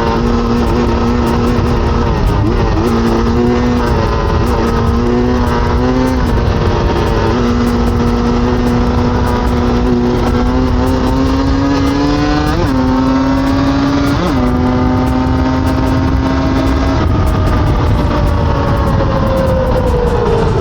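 Enduro dirt bike engine running while riding, its pitch mostly steady with small step changes and two sharp blips about two-thirds of the way in, then falling away near the end.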